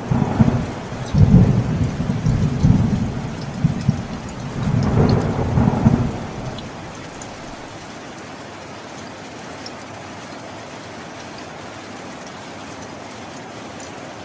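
Steady rain with a long, low roll of thunder in the first six seconds that swells twice, then rain alone.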